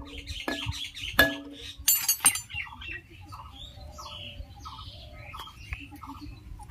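Metal striking metal on a jammed part of a diesel engine: sharp blows that ring with a clear tone, about three in the first two and a half seconds, a quick double knock among them. Birds chirp in the background after that.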